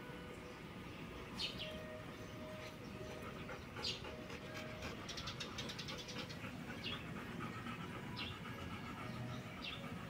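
Small birds chirping faintly: single short high chirps every second or two, with a quick ticking trill about five seconds in.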